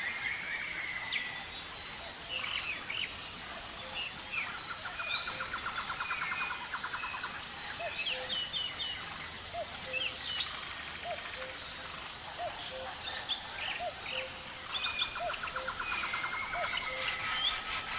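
Forest ambience: several birds chirping and calling, with a rapid trill near the start and again near the end, over a steady high insect whine. A short, low, rising call repeats about once a second through the middle.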